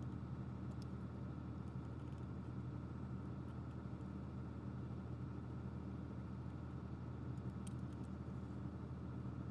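A steady, even machine hum with a few faint light clicks.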